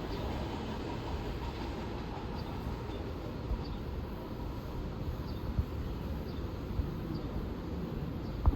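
Long Island Rail Road train running on the tracks: a steady low rumble of wheels on rail, with a single sharp knock near the end.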